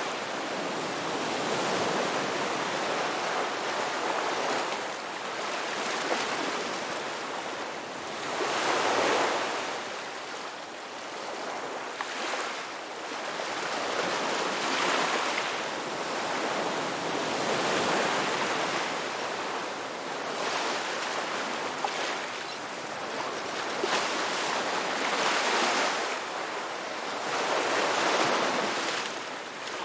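Ocean waves breaking and washing onto a beach, the surf swelling and falling back every few seconds.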